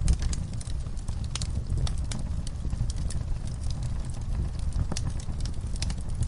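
Wood fire in an outdoor fireplace crackling: irregular sharp pops and snaps from the burning logs over a steady low rumble.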